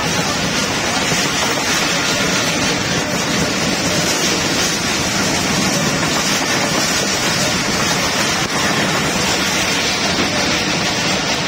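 Passenger train running, heard from on board: a loud, steady rushing noise of the wheels on the rails.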